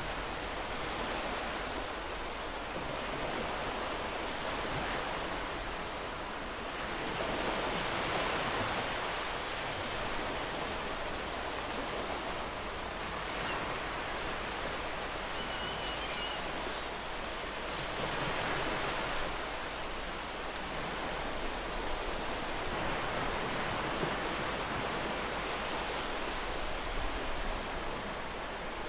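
Ocean surf washing onto a shore: a continuous rushing hiss that swells gently as a wave breaks about every ten seconds.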